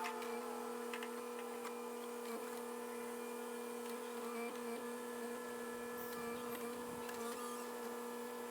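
Tractor engine running at a steady speed: a constant droning hum.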